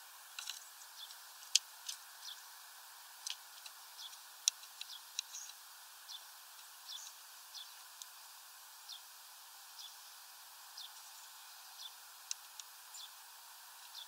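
Small birds giving short, high chirps at about two a second, irregularly spaced, with a few sharper clicks among them, over a steady faint hiss.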